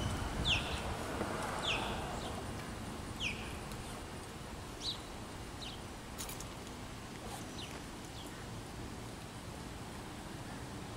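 A bird calling over and over with short calls that slide down in pitch, about one every second and a half, fading out near the end, over a steady low outdoor rumble.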